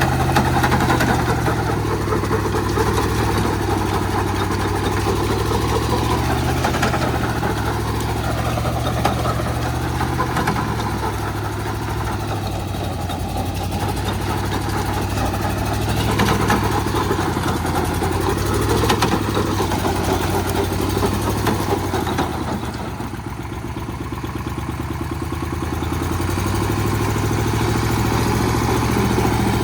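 Small diesel cultivator engine running steadily with a rapid knocking beat. Its level drops for a few seconds about two-thirds of the way through, then picks up again.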